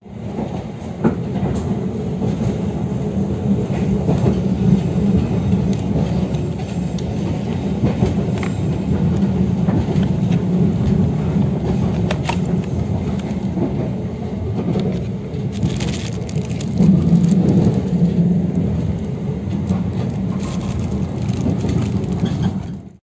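Steady low rumble of a moving passenger train heard from inside the carriage, with scattered light clicks and knocks throughout.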